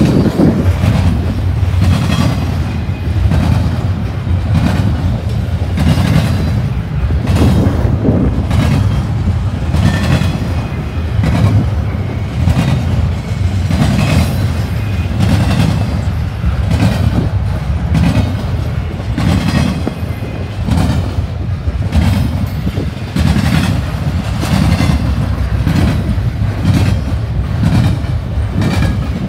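Double-stack intermodal train's well cars rolling past close by: a steady, loud rumble of steel wheels on rail with a repeating clickety-clack of wheel strikes.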